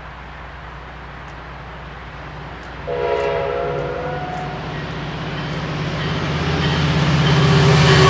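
Train horn blowing once about three seconds in, for a second or so, over the low rumble of a train's engine. The rumble grows steadily louder as the train approaches.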